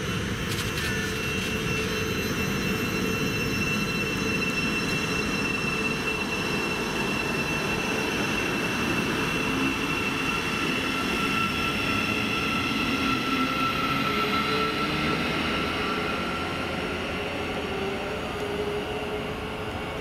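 A train running through the station: steady rail rumble with a thin high whine, easing off a little near the end.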